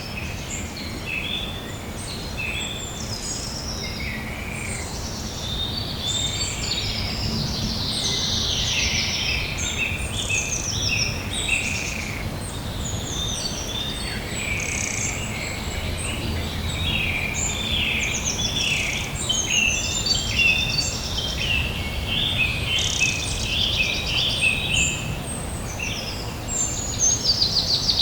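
Songbirds singing in a dense chorus of overlapping chirps and trills, over a low steady background rumble.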